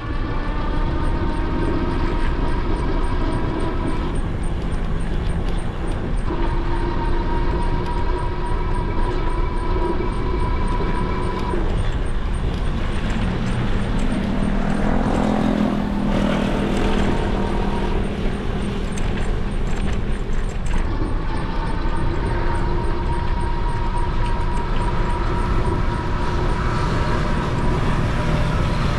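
Electric bike motor whining steadily under power assist over a constant rush of wind and road noise; the whine cuts out briefly a few times. A vehicle passes about halfway through.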